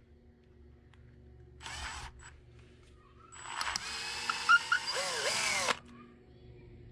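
Power drill drilling out a snapped brake bleed nipple in a Suzuki GS850 rear brake caliper. A short burst comes about two seconds in, then a longer run of about two and a half seconds whose pitch wavers and falls away as the drill stops.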